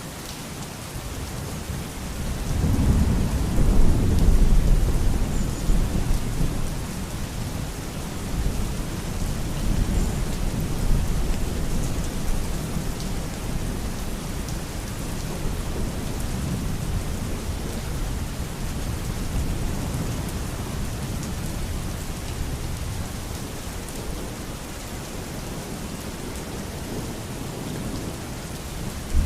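Steady heavy rain with thunder: a loud rumble swells about three seconds in and rolls away over several seconds, and fainter rumbling follows later under the constant hiss of the rain.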